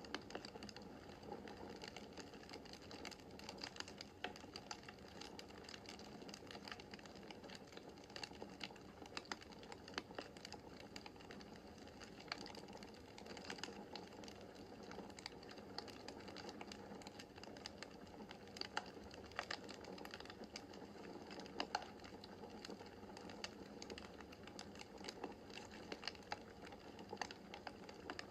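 Faint wood fire crackling in a fireplace: frequent irregular sharp pops and snaps over a steady soft hiss of the flames.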